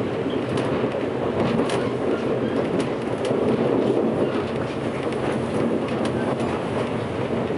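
JR West 583-series electric sleeper train running, heard inside the motor car: a steady rumble with irregular sharp clicks of the wheels passing over rail joints and points.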